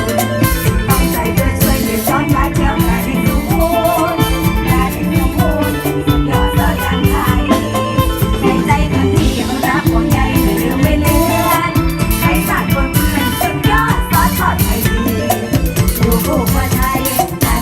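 Mor lam band music: drums playing a fast, driving beat under singing and melodic instruments.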